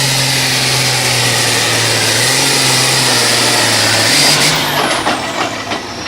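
Turbo-diesel modified pulling tractor's engine running hard under load. About four seconds in the engine note climbs briefly, then the throttle comes off: a high whistle falls steadily in pitch as the engine winds down, with a few knocks near the end.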